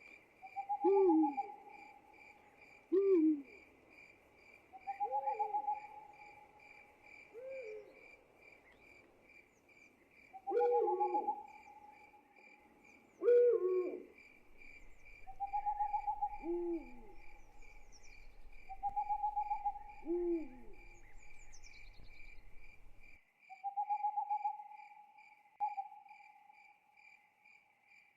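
Owls hooting at night over a steady, evenly pulsing cricket chirp. Longer level hoots repeat every few seconds, with shorter falling hoots between them; the shorter hoots stop about 23 seconds in.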